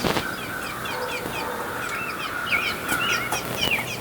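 Birds chirping: many short, quick chirps in rapid succession, with a steady thin tone underneath.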